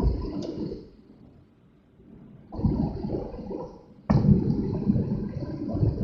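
Rushing water noise of a car driving on a rain-soaked road in typhoon weather, coming in surges: it fades out about a second in, returns around two and a half seconds in, and comes back suddenly after four seconds.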